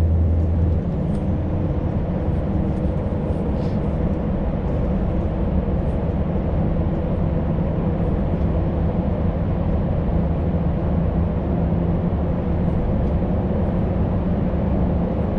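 Scania V8 lorry on the move: steady engine drone with road noise. The deepest rumble eases a little about a second in and then holds steady.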